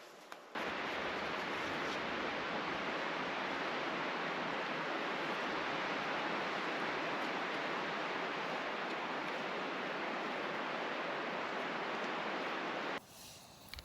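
Steady rush of running water, like a stream or small waterfall, cutting in sharply about half a second in and cutting off near the end.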